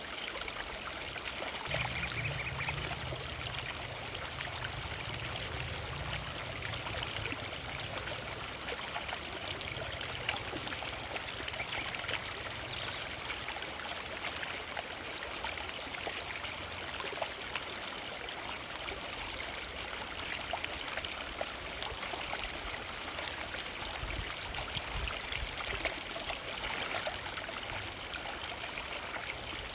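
Forest river running steadily, water rushing and splashing over stones, with a low rumble now and then in the lowest register.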